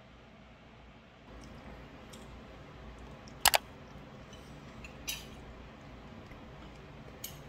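Metal spoon and fork clinking against a ceramic bowl during a meal: a few short clinks, the loudest a sharp double clink about three and a half seconds in, over quiet room tone.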